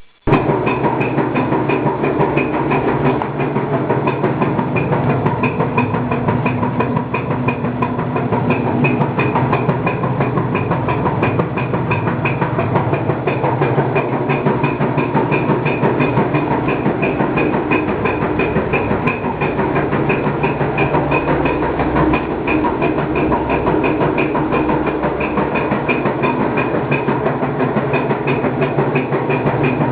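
New Whirlpool clothes washer running with a steady loud mechanical hum and a fast, regular clicking pulse over it, a noise that Whirlpool customer service calls normal.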